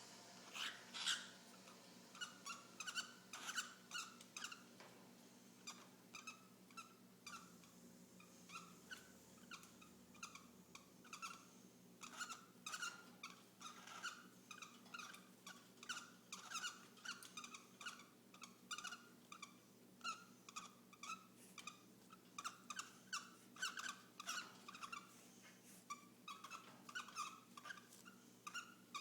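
Cockatiels mating, with a long run of short, soft chirps repeated about twice a second; they thin out for a few seconds partway through.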